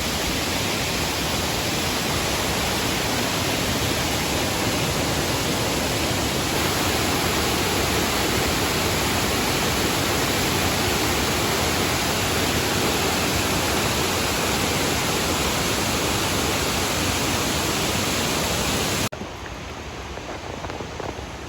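Waterfall rushing steadily, loud and close. About nineteen seconds in it cuts off suddenly to a much quieter rush of water.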